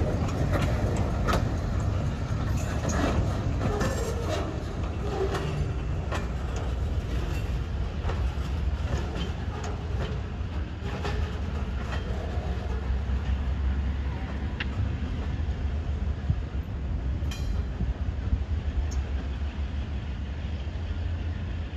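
Freight boxcars rolling slowly along the track: a steady low rumble with clicks and clanks from the wheels and rail joints. The clanks thin out as the cars move off.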